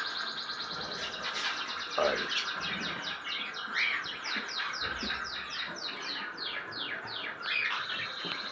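Canaries chirping and singing in an aviary, with a rapid trill of repeated falling notes, several a second, through the middle.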